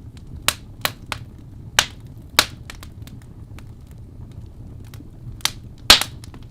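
Wood fire crackling: sharp, irregular pops and snaps over a steady low rumble, with the loudest pop near the end.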